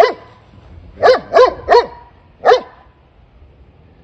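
A large dog barking: one bark, then a quick run of three about a second later, and a last bark about halfway through, each short with a falling pitch.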